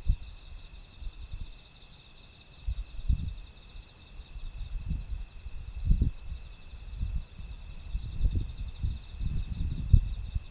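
Gusts of typhoon wind buffeting the microphone in uneven low rumbles every second or two, over a steady chorus of insects chirping.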